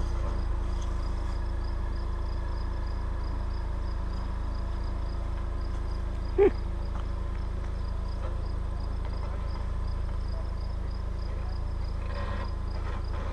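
Low, steady hum of an SUV engine running at crawling speed, with insects chirping in a steady rhythm. A single short, sharp squeak comes about halfway through.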